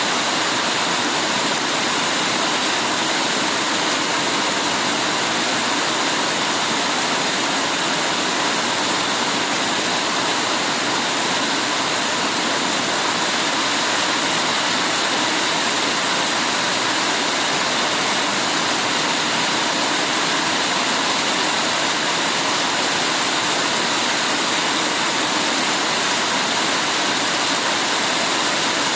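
Heavy rain pouring steadily, an even, unbroken hiss of falling water.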